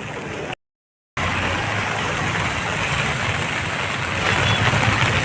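Road traffic passing, with vehicle engines running steadily. The sound cuts out completely for about half a second near the start, then returns slightly louder and builds a little toward the end.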